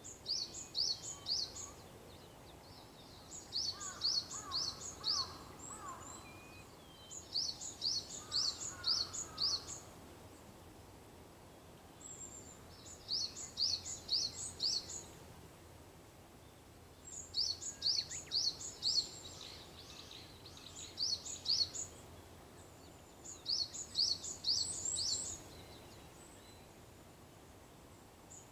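A small songbird singing a short phrase of four or five quick, high notes, repeated about every four seconds, with a fainter, lower-pitched bird calling once or twice in between.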